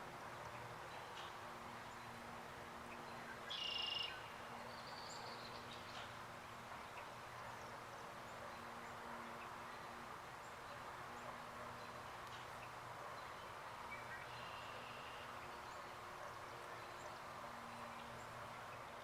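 Quiet outdoor ambience with a faint steady hum, and a bird calling briefly a few times, the clearest call about three and a half seconds in.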